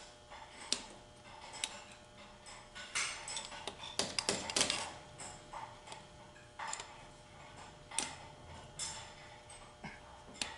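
Irregular metallic clicks, taps and short scrapes of automatic transmission parts being pushed and fitted into place by hand, with a busier cluster of scraping and clicking in the middle.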